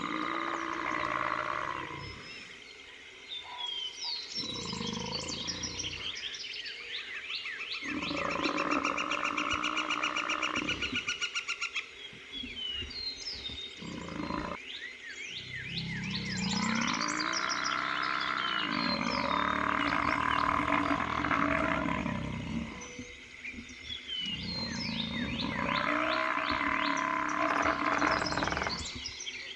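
Lions growling and a wounded Cape buffalo bull bellowing as the lions try to kill him, in long drawn-out bouts of several seconds with short pauses between them. Steady chirping in the background.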